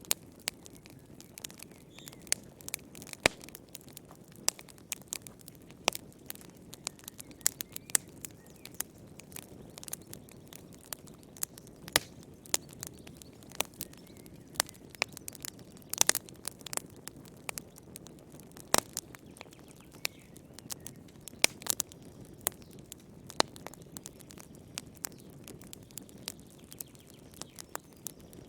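Wood fire crackling in a fireplace: irregular sharp pops and snaps, several a second, over a steady low hiss of the flames.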